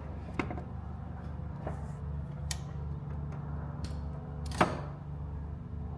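Scattered light clicks and taps of handling, with one sharper click about four and a half seconds in, over a steady low hum.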